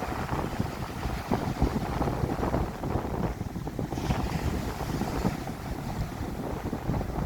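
Stormy sea surf breaking and washing ashore, with heavy wind buffeting the microphone; a wave's hissing wash rises about four seconds in.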